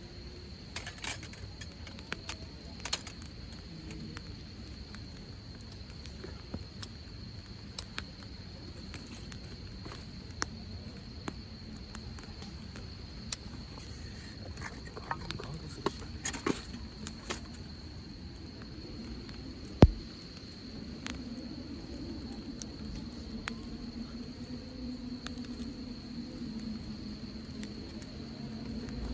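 Insects chirring in a steady high trill, while a hardwood campfire crackles with scattered sharp pops, the loudest about twenty seconds in. A low hum rises near the end.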